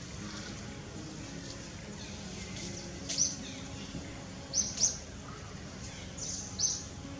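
Birds chirping: a handful of short, high chirps, loudest around the middle and near the end, over a steady low background.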